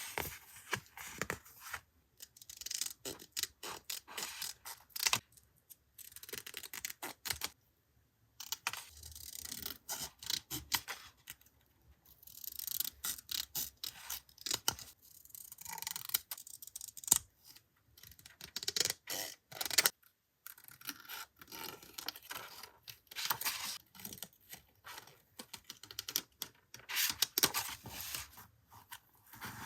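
Paper and craft materials being handled close to the microphone: rustling and scraping with many small taps and clicks, in short spells broken by brief pauses.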